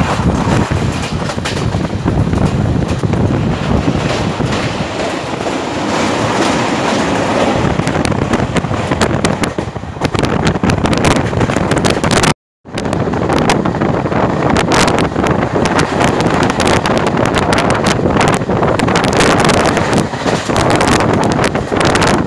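Passenger train running along the track, its wheels clattering steadily over the rails, with wind on the microphone. The sound cuts out completely for a moment about halfway through.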